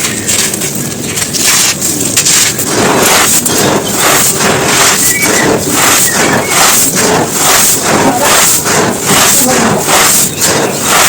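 Dry chunks of crumbling floor material, such as dried mud or cement, breaking and crunching in rapid crackles. From about two and a half seconds in, a sharper crunch comes roughly twice a second.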